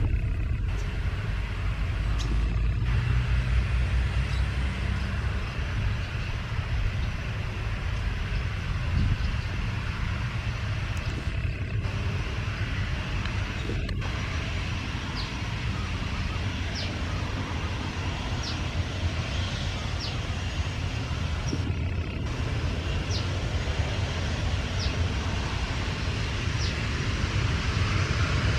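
Steady low rumble and hiss of jet aircraft engines across an airfield, with faint short high chirps recurring about every two seconds in the second half.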